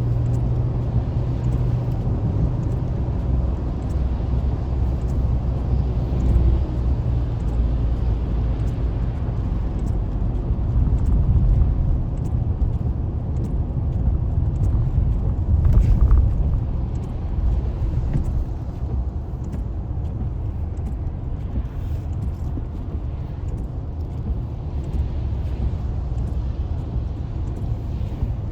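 Road and engine rumble heard from inside a moving car on a highway, steady and low, with a brief louder swell a little past the middle.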